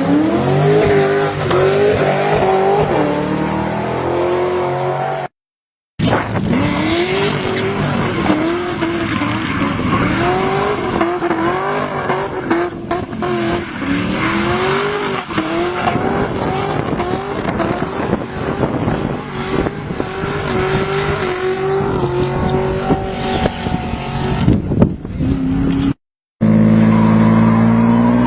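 Car engines revving hard, their pitch rising and falling over and over as the throttle is worked, with tyres squealing as the cars slide sideways in drifts. The sound drops out completely twice, briefly, between clips.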